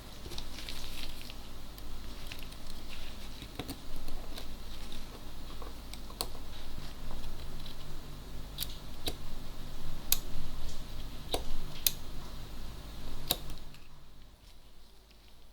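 Sharp, irregularly spaced clicks and small taps from hands-on work on a vintage Olympus Ace rangefinder camera, over a low steady hum that stops near the end.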